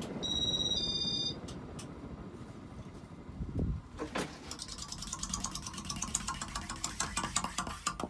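Casablanca Panama ceiling fan running on high, its bearings worn out, with a low rumble and, in the second half, a fast even ticking rattle. A short high two-tone electronic beep sounds near the start.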